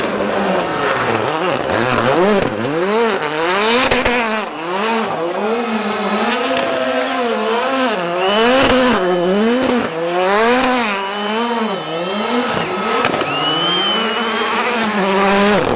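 Rally car engine revving up and down about once a second, held at a steady pitch near the end, with tyres squealing against the tarmac.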